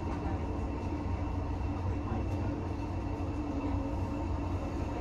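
Steady low rumble with a faint even hum, heard from inside a heritage railway carriage.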